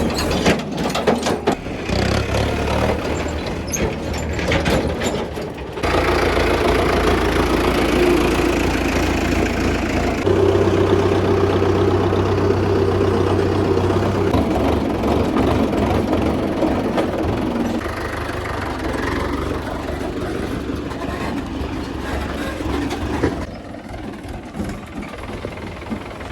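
A Mahindra tractor's diesel engine runs throughout, its pitch shifting several times, with irregular knocking in the first few seconds. It becomes quieter near the end.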